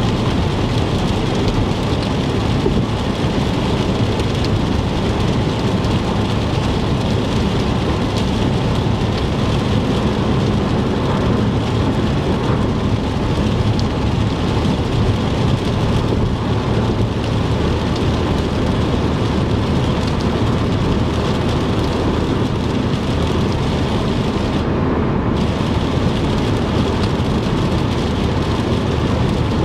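A car driving on the interstate in heavy rain: rain on the car and tyres hissing on the wet road over a steady low road rumble. The high hiss drops out briefly near the end.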